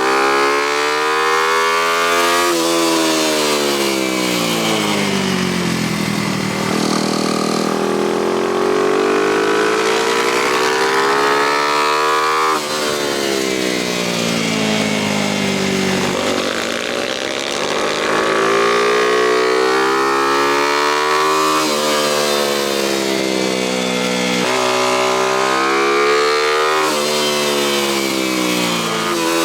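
A small single-cylinder motorcycle engine lapping a tight track. The revs climb and fall in long sweeps every few seconds, with sudden jumps in pitch at the gear changes.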